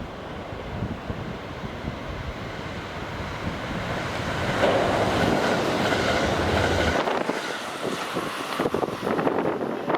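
Train going by at speed: a rushing noise builds to a peak around the middle, then a quick run of wheel clacks over rail joints near the end.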